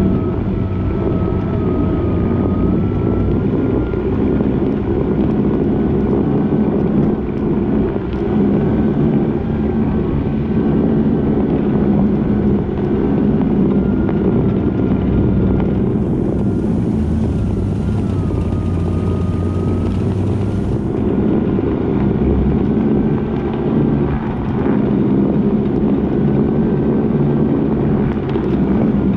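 Mini pickup truck fitted with rubber tracks driving, its small engine running steadily with a wavering higher whine over it.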